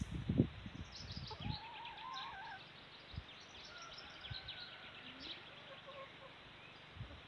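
Small birds chirping and twittering: many quick high chirps with a few short whistled phrases. A few low rumbles in the first second and a half.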